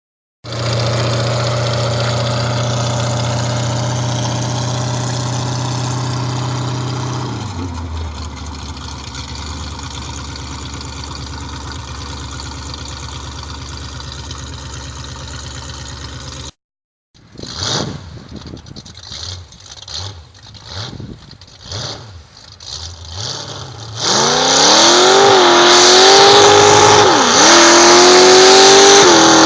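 Willys truck engine idling steadily, its idle dropping lower about seven seconds in. After a brief break come a series of short throttle blips, then loud revving whose pitch rises and falls near the end.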